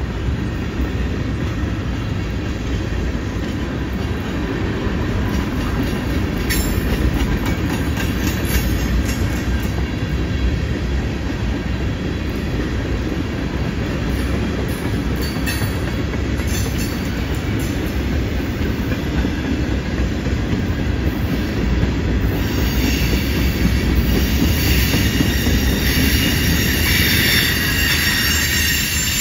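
Freight cars of a long CN freight train rolling past: a steady low rumble of steel wheels on rail with scattered clicks. About three-quarters of the way through, a high squeal of wheel flanges grinding on the curve joins in.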